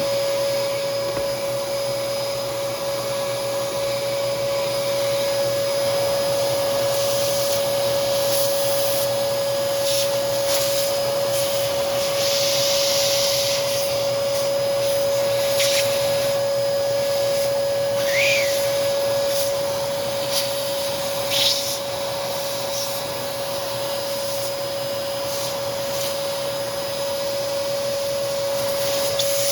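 Hoover Commercial PortaPower CH30000 canister vacuum running steadily, its motor giving a constant high whine over the rush of airflow. A few brief hissing and scratchy sounds come and go in the middle.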